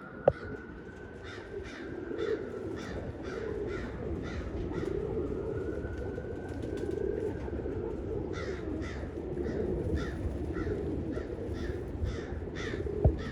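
Crow cawing over and over in quick series, the calls coming thicker in the second half, over steady wind rumble on the microphone.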